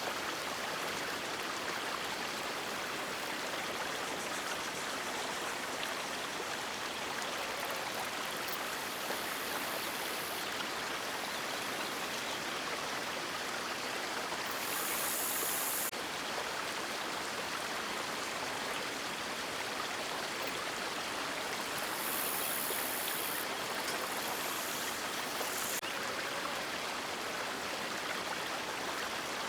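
River water rushing steadily, an even, unbroken flow sound. A few brief high hisses, each a second or two long, rise over it about a third and again about three quarters of the way through.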